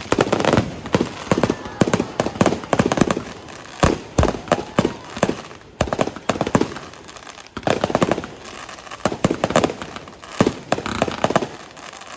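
Aerial fireworks going off: clusters of sharp bangs and crackles in quick succession, with short lulls between the clusters.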